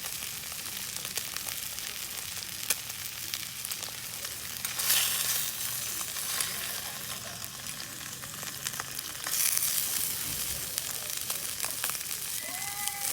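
Steak sizzling over a wood campfire: a steady hiss with sharp pops, the hiss swelling louder twice, about five and nine seconds in.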